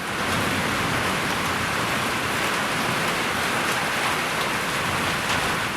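Heavy rain from a severe thunderstorm, a steady, even hiss.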